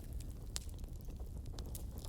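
Fireplace fire crackling: irregular sharp pops and snaps, a few louder, over a low steady rumble of flames.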